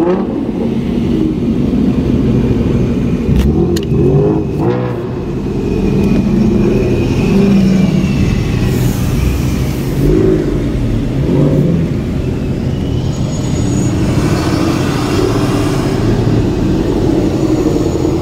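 Car engine running while driving, heard from inside the cabin, with the revs rising and falling a few times.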